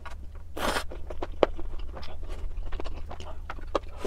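Close-miked chewing of ramen, with many quick wet mouth clicks and a brief noisy burst, like a slurp, a little under a second in.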